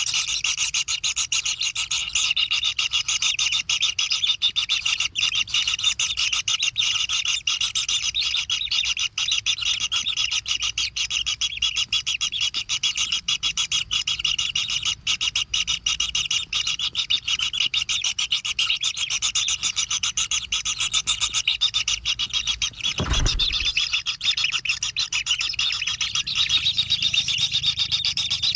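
Kingfisher nestlings giving begging calls without pause, a dense, high, rapid buzzing chatter. A single low thump comes about 23 seconds in.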